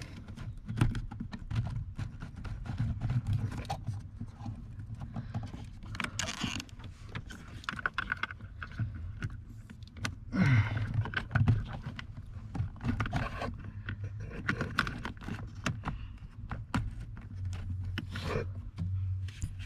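Irregular clicks, taps and rustling from plastic interior trim and the cabin air filter housing being handled, over a low steady hum.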